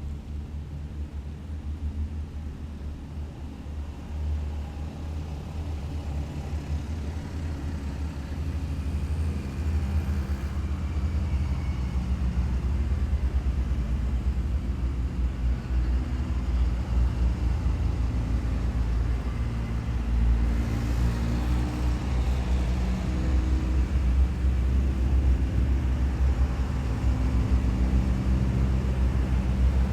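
Heavy military vehicles driving past in a column, their engines giving a deep, steady drone that grows louder over the first dozen seconds and then holds, with a brighter rush about twenty seconds in as one passes close.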